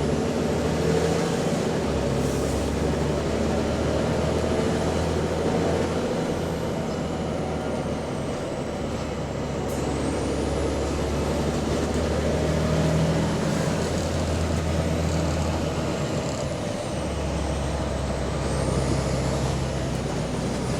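Bus diesel engine running under way, heard on board, its exhaust leaking; the engine note shifts up and down every few seconds with the throttle, over a faint high whine that rises and falls with speed.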